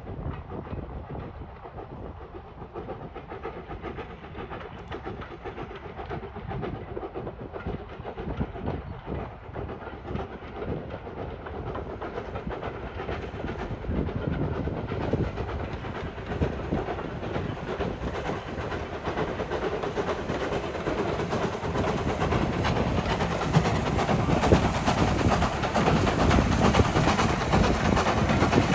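A train approaching and growing steadily louder, with a high hiss building up over the last ten seconds or so.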